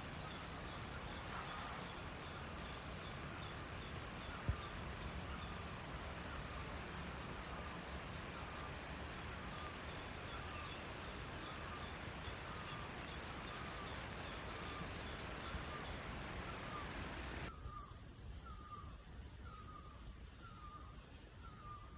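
A loud, high-pitched chorus of insects buzzing in quick pulses, with a short chirping call repeated about once a second beneath it. The whole sound drops suddenly to a much fainter level near the end.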